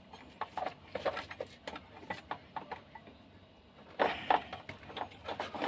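Hands handling refrigerator wiring and plastic connectors while fitting the defrost thermostat's wire connectors: scattered small clicks and knocks, with a louder cluster about four seconds in.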